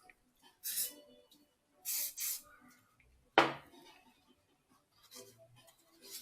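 Small workbench handling sounds: a few short rubbing scrapes, then one sharp knock about three and a half seconds in, and some faint clicks near the end.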